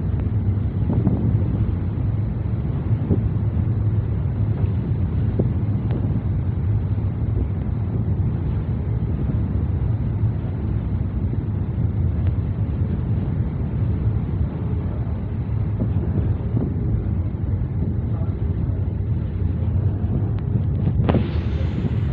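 Wind buffeting the microphone on a boat out on the harbour: a steady, even low rumble with no distinct engine note. It changes abruptly near the end.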